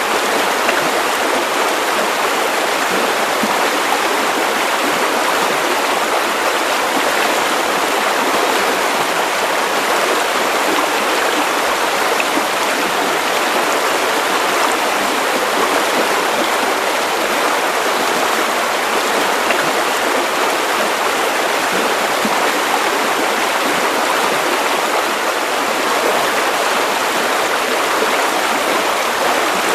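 Continuous white noise for sleep: a steady, even hiss with very little bass, unchanging throughout.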